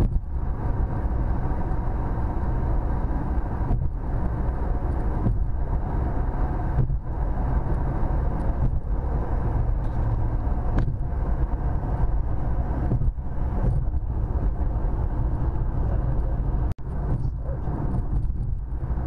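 Steady road and engine noise of a car driving at speed, heard inside the cabin: a continuous low rumble with tyre hiss, dropping out briefly a few times.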